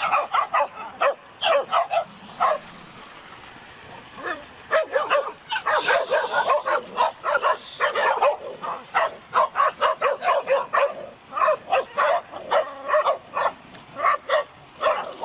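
Dogs barking rapidly and repeatedly at a crocodile. After a lull of about two seconds near the start, several dogs bark over one another.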